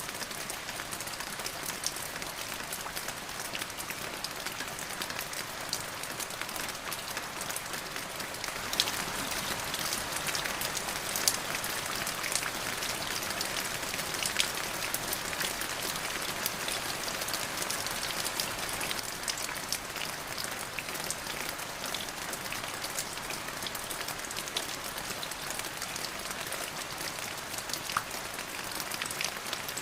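Steady rain falling, an even hiss with many fine drop ticks, growing a little heavier about a third of the way through and easing again later.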